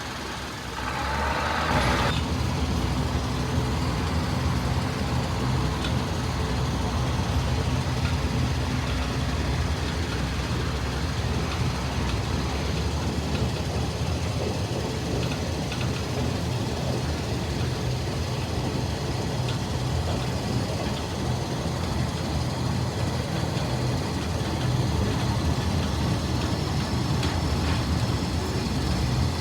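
RHN diesel railcar running steadily with a low drone, which grows louder about a second and a half in. A short hissing burst comes about a second in.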